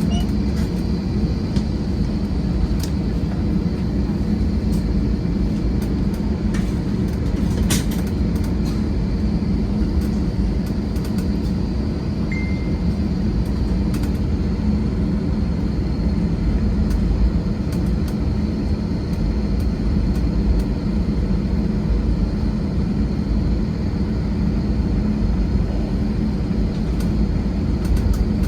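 Airliner cabin noise: the engines running with a steady low rumble through the cabin before take-off. A few faint clicks and a brief faint beep about twelve seconds in.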